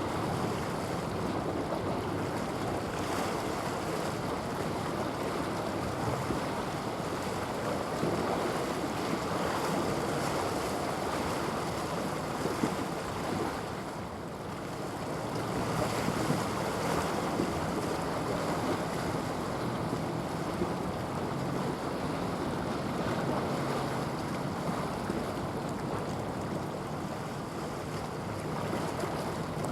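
Steady wind buffeting the microphone over the wash of water, with a faint low hum underneath for a stretch in the middle.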